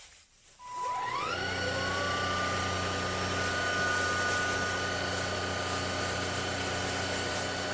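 ElecKeys K10 cordless stick vacuum cleaner switched on about a second in: its motor spins up with a rising whine, then runs steadily with a high whine over a low hum.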